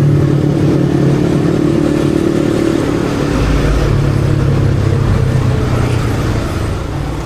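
Yamaha XSR155's single-cylinder engine running under way at a steady speed, with wind and road noise. Its note shifts about three seconds in and it grows quieter near the end.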